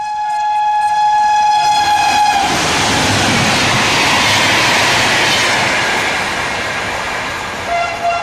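Electric locomotive's air horn sounding as the trial train approaches at about 130 km/h, its pitch dipping as it ends a couple of seconds in. Then the loud rush of the coaches speeding past, slowly fading, with a short horn toot near the end.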